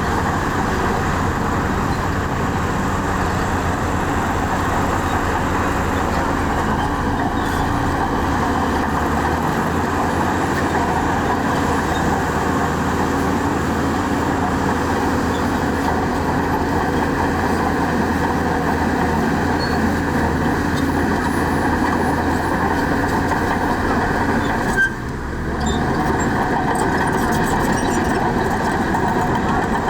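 Heavy diesel engines of earthmoving machinery (bulldozer and dump trucks) running steadily, with a brief sudden drop in the noise about five seconds before the end.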